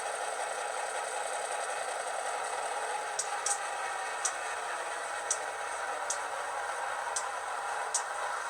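HO-scale model diesel switcher's ESU LokSound v5 decoder playing a steady diesel engine sound through two tiny sugar-cube speakers, with no deep bass. From about three seconds in, sharp ticks come every half second to a second.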